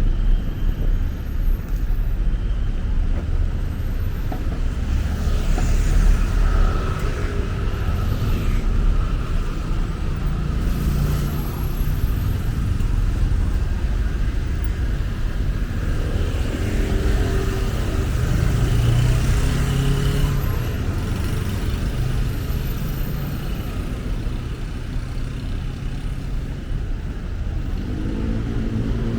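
Busy city road traffic: a steady rumble of cars and other vehicles passing, with individual engines swelling and fading. Near the end one engine grows louder and changes pitch.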